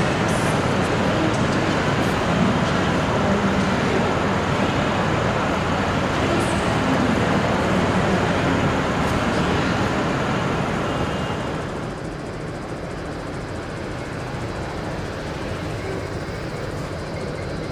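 A train passing, with steady rolling noise that drops off about twelve seconds in.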